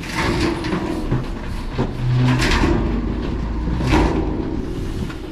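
CAT 279D compact track loader's diesel engine running under load, its pitch shifting as it works, with several sharp metallic clanks about two and four seconds in.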